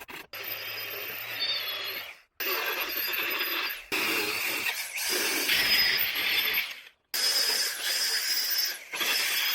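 Electric welding on car body steel in four bursts of one and a half to three seconds each, every burst starting and stopping abruptly as the torch trigger is pulled and released, with a faint high whine over the hiss.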